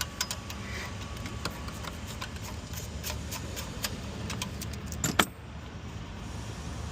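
Irregular small metal clicks and clinks of tools and parts being handled while a truck's engine bay is taken apart, with a louder double knock about five seconds in, over a steady low hum.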